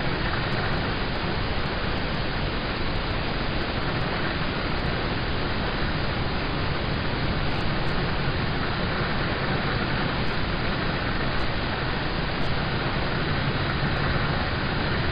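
Steady rain falling on a car, heard from inside the cabin as an even, unbroken hiss.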